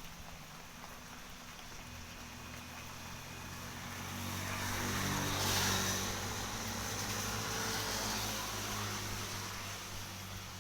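A motor vehicle passing by: its engine and tyre noise swell to a peak about halfway through, then fade away, over a steady background hiss.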